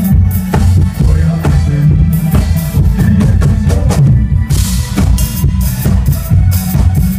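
Drum kit played with kick drum, snare and cymbals over a pop song backing track with a heavy bass line; the cymbals grow busier about four and a half seconds in.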